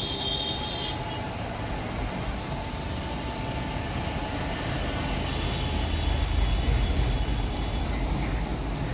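Train running on the rails, a steady rumble that grows louder and deeper about halfway through, with faint high-pitched tones above it.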